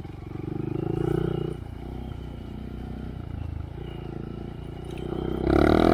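Honda Monkey's single-cylinder engine through a Yoshimura RS3 exhaust, revving up and down under throttle while riding trail. It picks up about a second in, eases off, and gives its loudest rev near the end.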